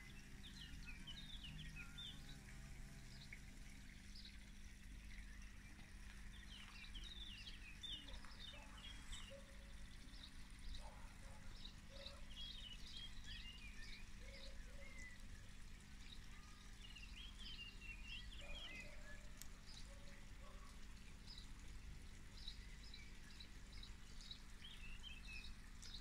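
Faint small-bird chirping and twittering in short bursts every few seconds, over a low steady hum.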